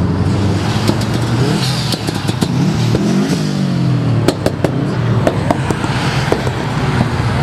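Car engine revving hard as the car drives past close by, its pitch sweeping up and down as it passes. About halfway through come several sharp cracks.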